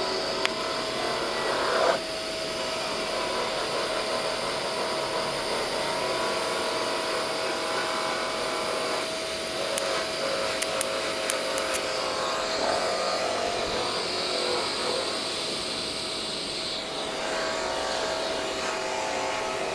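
TIG welding arc burning steadily as a seam is welded: a continuous buzzing hiss with a steady tone running through it.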